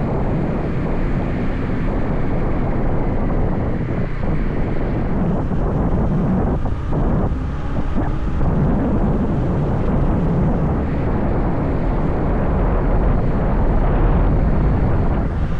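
A motorbike running along the road, its engine and road noise mixed with wind buffeting the microphone, with a slight lull about seven seconds in.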